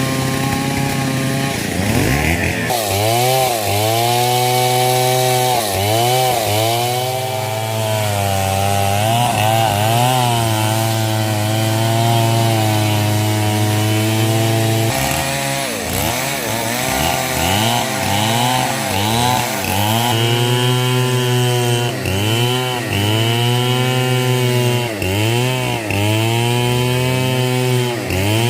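Stihl 070 two-stroke chainsaw cutting hard coconut-palm wood. The engine note keeps dipping and swinging back up as the chain bites into the timber and the load comes and goes.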